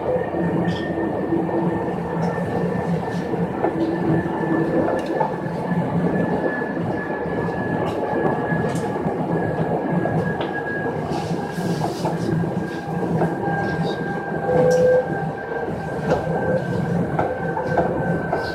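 Chichibu Railway electric local train running on the line, heard from inside the car: a steady rumble of wheels and running gear with scattered clicks over the rails, and a thin high whine that drifts slightly lower in pitch.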